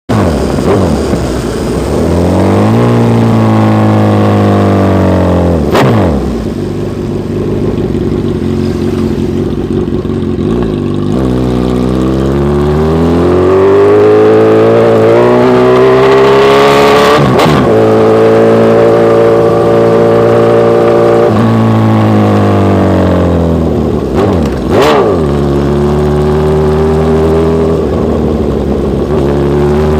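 Honda CB1000R's inline-four engine revving through an aftermarket HP Corse exhaust: the revs climb, hold steady for several seconds, then drop, repeated three times. There is a sharp crack about six seconds in, another midway, and a third near the end.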